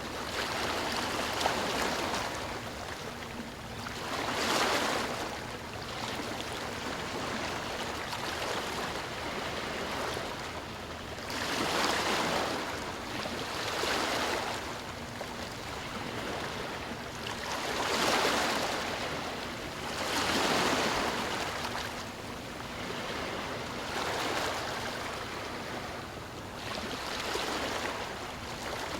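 Ocean waves breaking and washing on a shore, a swell of surf every few seconds over a steady rushing wash.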